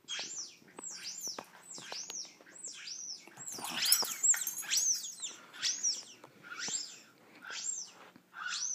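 High chirping sound played through a phone speaker: a run of short squeaky chirps, each rising and then falling in pitch, about two a second, with a short pause near the end.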